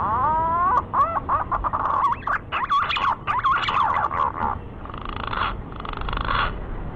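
Green pigeon (Treron) calling: a run of fluty, wavering whistles that glide upward, followed near the end by two rougher, hoarser phrases.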